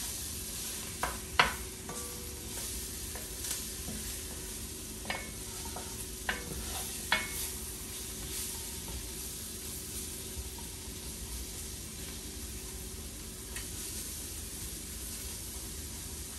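Gumbo ingredients sizzling in a pot on the stove while being stirred with a spoon, with a steady frying hiss. Several sharp knocks of the spoon against the pot in the first half.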